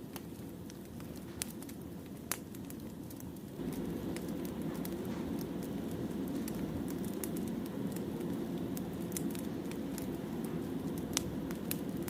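Firewood burning in a campfire: scattered sharp crackles and pops over a steady low rumble of the flames, which gets louder about three and a half seconds in.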